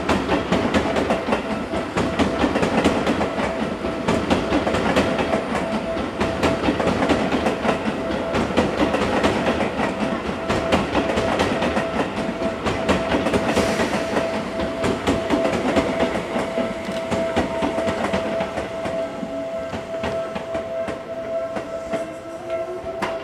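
Seibu Railway electric trains moving through the station: a dense clatter of wheels over rail joints, with a steady high tone held over it. About nineteen seconds in, a rising motor whine sets in as the yellow train starts to pull away.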